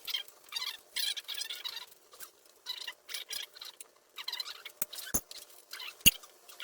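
Repeated short bursts of high, scratchy scraping or squeaking, then two sharp knocks about five and six seconds in, the second the loudest.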